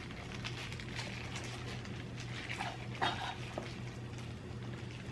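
Close-up chewing and small mouth clicks from eating a fried bean curd pocket stuffed with rice, with a brief squeak-like sound about three seconds in.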